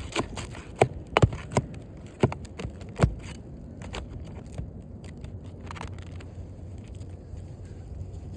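Metal pry tool working under asphalt roof shingles to pull out rusted roofing nails: a quick run of sharp knocks and scrapes over the first three seconds, then fainter clicks that die away by about six seconds in.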